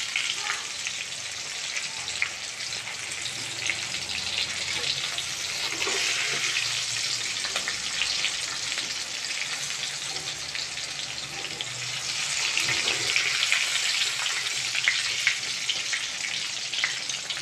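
Halved pointed gourds (potol) sizzling steadily in hot oil in a steel wok, with a wire-mesh skimmer scraping and ticking against the pan as the fried pieces are lifted out.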